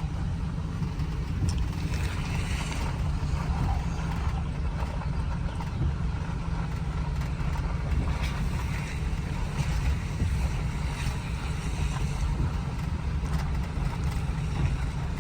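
Steady low rumble of a vehicle running and moving, with no change in pace.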